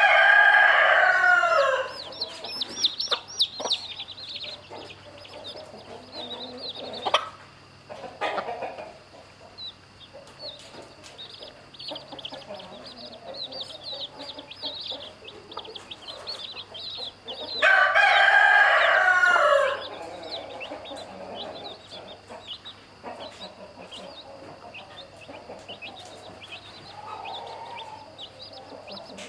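Rooster crowing twice, once at the start and again a little past halfway, each crow about two seconds long and falling in pitch at the end. Between the crows, chicks peep constantly in short high cheeps.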